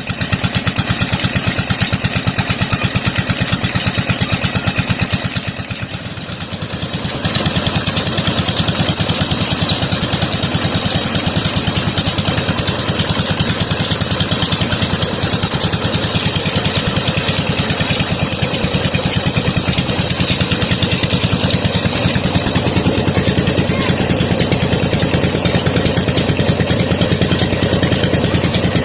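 A 16 HP diesel engine running steadily with a fast, even firing beat while driving a tube well water pump. It dips briefly about six seconds in, then comes back louder.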